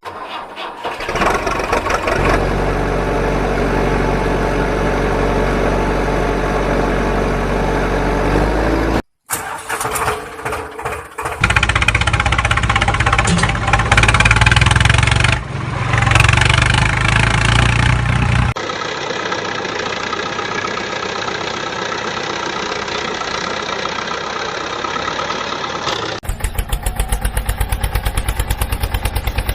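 Engine sounds in several sections that change abruptly: a steady engine drone, a short break, a louder low running engine, then a different steady engine. Near the end comes a fast, even pulsing.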